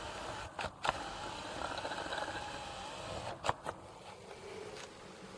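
A small motor whirs with a slightly wavering pitch for about two seconds, set between a few sharp clicks: two clicks before it and two more about a second after it stops.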